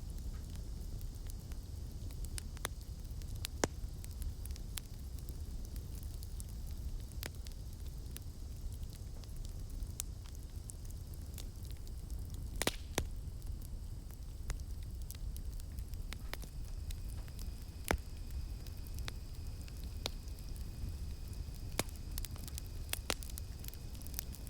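Campfire burning with a steady low rumble of flames and irregular sharp crackles and pops from the burning wood, two of them louder than the rest. About two-thirds of the way through, a faint steady high buzz of night insects joins in.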